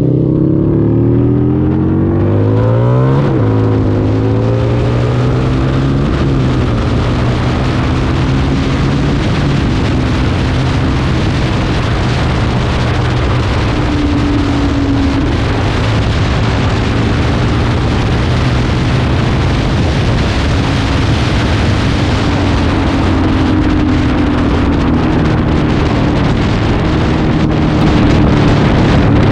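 Harley-Davidson V-Rod's V-twin engine accelerating, with two shifts up through the gears in the first six seconds, each heard as a sharp drop in pitch. It then holds a steady cruise, with wind rushing over the microphone.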